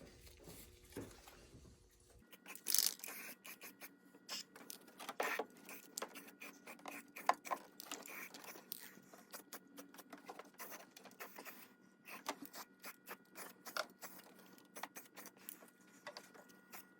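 Faint, scattered clicks, taps and scrapes, irregular and with a few louder knocks, over a faint steady hum.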